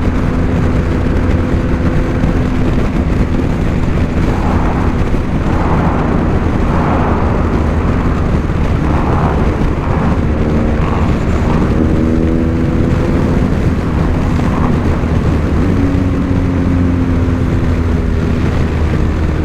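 BMW R 1250 GS Adventure's boxer-twin engine running under way, with steady wind rumble on the microphone. The engine pitch shifts and glides up and down a few times in the second half as the revs change.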